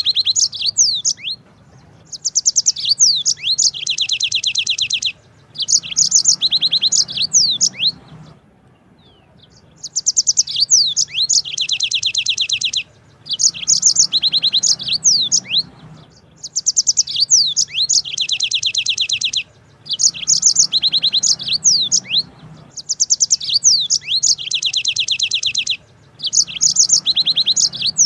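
Yellow-fronted canary (Mozambique canary) singing long rolling phrases. Each phrase lasts a few seconds and is built of fast, high trills, with short pauses between phrases.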